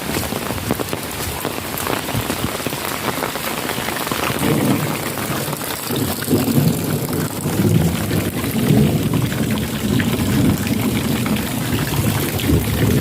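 Heavy rain falling steadily on puddles and ground. From about four seconds in, a low uneven rumble of thunder joins it and the whole grows louder.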